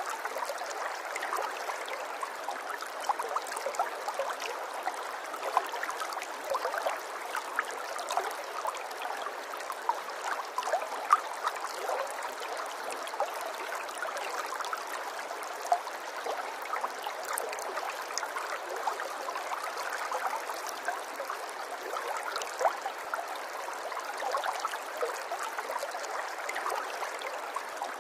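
Running water, a steady rush flecked with many small irregular splashes.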